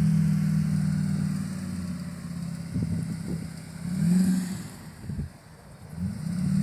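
Car engine running with a steady hum that fades after a couple of seconds, then revving up and down briefly twice.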